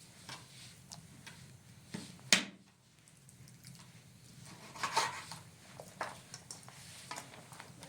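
A few knocks and taps from objects being handled, over a steady low hum. The loudest is a sharp knock about two and a half seconds in, and a small cluster of knocks comes around five seconds.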